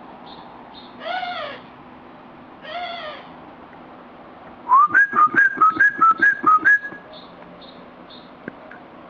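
Whistled bird-like calls: two short arching calls, one about a second in and one about three seconds in. Then comes a loud, rapid run of about a dozen notes alternating between two pitches, lasting about two seconds.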